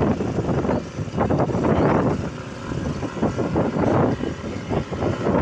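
Motorcycle on the move, its running engine mixed with uneven wind buffeting on the microphone that swells and dips every second or so.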